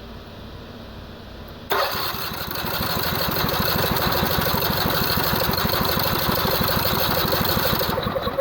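A two-cylinder engine with one piston removed, cranked by its electric starter with a rapid, even beat. It starts suddenly about two seconds in, runs for about six seconds and stops near the end without the engine catching.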